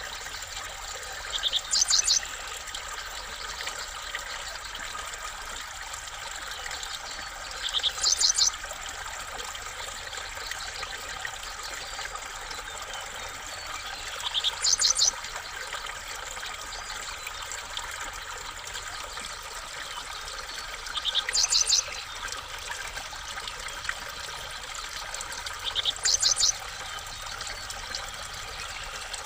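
A songbird calling five times, roughly every six or seven seconds: each call is a short lower note followed by a quick run of high, sharp notes. Under it runs a steady trickling background noise.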